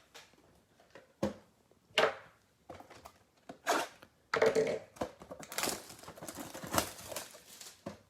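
Trading cards and their cardboard and plastic packaging being handled: a few separate taps and knocks, then from about halfway a steady crinkling and rustling of wrapper and card stock.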